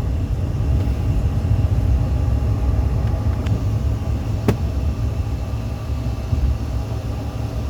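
Steady low rumble of an aircraft in its takeoff climb, with an even engine hum above it and two small clicks about three and a half and four and a half seconds in.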